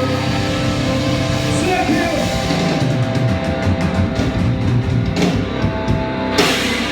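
Live rock band playing loud, with electric guitar over drums and held chords, and a bright crash-like burst near the end.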